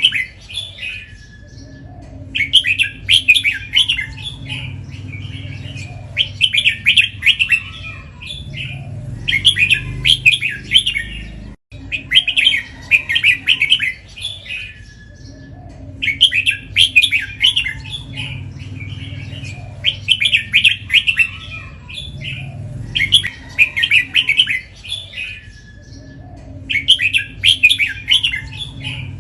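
Red-whiskered bulbul singing loud, short phrases about every three to four seconds, the doubled phrases prized in Thai competition bulbuls, over a low steady hum.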